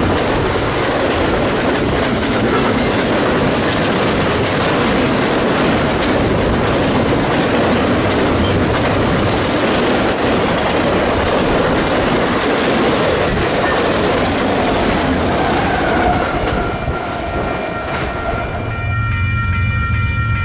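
Freight train rolling past close by, its wheels clattering steadily over the rail joints. Near the end the rolling noise falls away and a locomotive horn sounds a steady multi-note chord.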